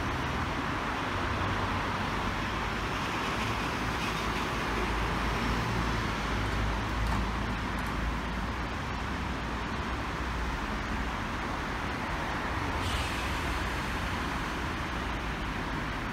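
Steady low hum and hiss of a red Hakone Tozan Railway electric train standing at the platform with its doors closed, with a brief higher sound about thirteen seconds in.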